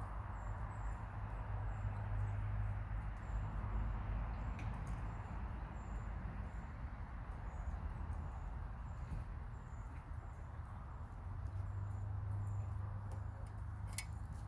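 Hens dust bathing, scuffling and scratching in dry dirt with soft clicks and one sharp click near the end, over a steady low rumble. A faint, high, short chirp repeats about twice a second throughout.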